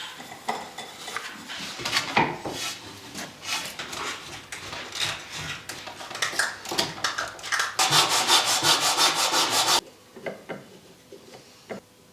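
Hand tools working wood: irregular scraping and rubbing strokes, then about two seconds of fast, even rasping strokes, then a few light taps near the end.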